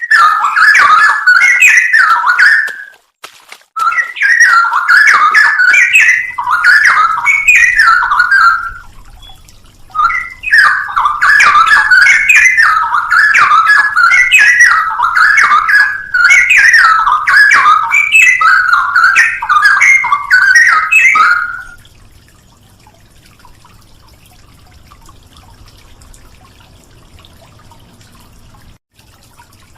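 Straw-headed bulbul (cucak rowo) singing loud, rich, bubbling whistled warbles in three long bouts with brief pauses, stopping about 22 seconds in; after that only a faint low hum is left.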